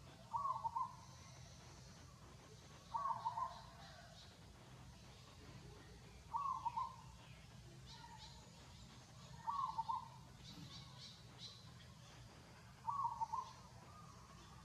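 A bird calling five times at even intervals about three seconds apart, each call a short, slightly broken hoot-like phrase. Fainter high chirps from other small birds come around the middle.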